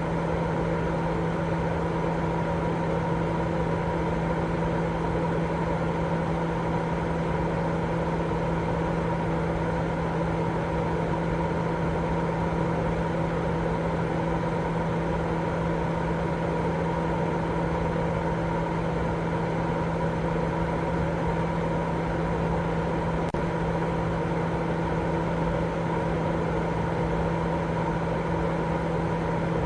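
Continuous baby-sleep noise: an even rushing hiss that never changes in level, with a steady low hum and a few fainter steady tones underneath.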